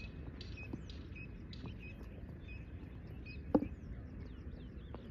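Birds chirping over a steady low background noise, with a few sharp clicks, the loudest about three and a half seconds in.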